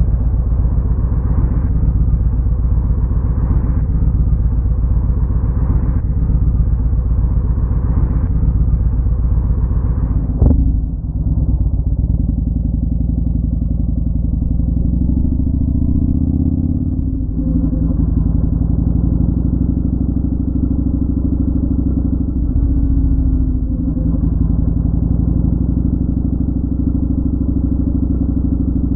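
Motorcycle engine running steadily under way, with one sharp click about ten seconds in, after which the engine note changes.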